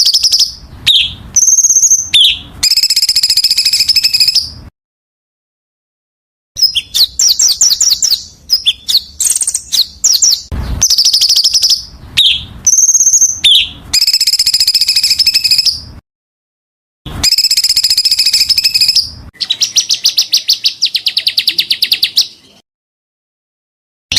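Small songbird song edited into a looped tutoring track: rapid, harsh trills and chattering phrases of about two seconds each, the same phrases repeated several times. The song cuts off abruptly into dead silence three times.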